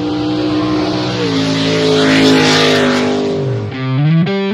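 Intro sound effect of a car engine running hard, its pitch stepping down about a second in, with a rushing hiss swelling in the middle. A rising sweep near the end gives way to distorted electric guitar music.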